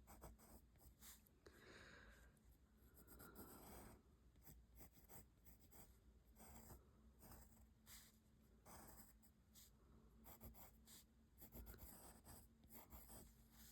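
Faint scratching of a graphite pencil on paper: irregular short strokes as a drawing is sketched and shaded.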